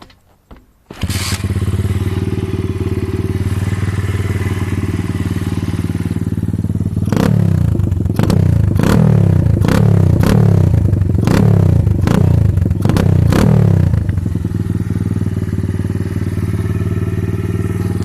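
125cc pit bike's single-cylinder four-stroke engine catching about a second in and idling, then blipped about eight times in quick succession, each rev falling back to idle, before settling into a steady idle.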